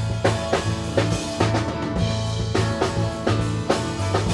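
Rock band playing an instrumental passage: a drum kit keeps a steady beat of snare and bass-drum strokes under an electric bass line and guitars.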